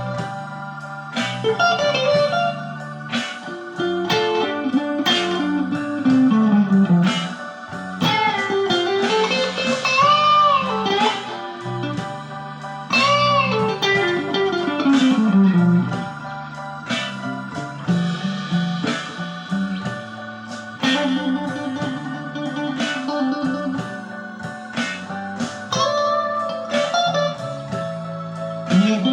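Electric guitar with Lace Sensor Gold pickups and a Fender active circuit, played in a blues style. There are string bends and falling runs of notes down into the low register.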